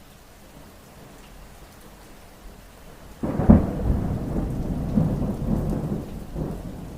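Steady rain, then about three seconds in a sudden thunderclap: a sharp crack followed by low rolling rumbles that fade over the next few seconds.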